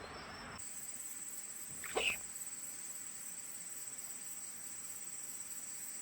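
An insect trilling steadily at a high pitch, its pulsing song starting about half a second in. A brief rising squeak cuts in once, about two seconds in.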